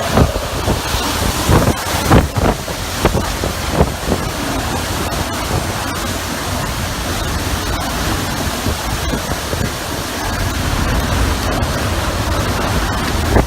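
Typhoon-force wind blowing hard and steadily, with gusts buffeting the microphone, most heavily in the first few seconds.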